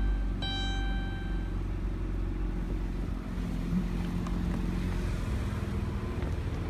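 Dodge Grand Caravan's 3.6-litre V6 idling steadily. A chime rings once about half a second in.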